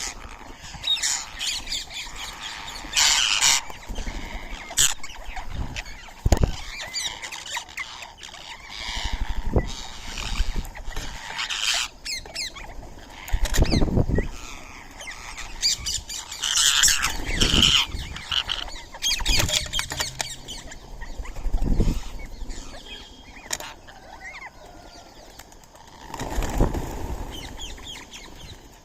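Birds calling in short, irregular bursts, mixed with wing flapping and now and then a low thump.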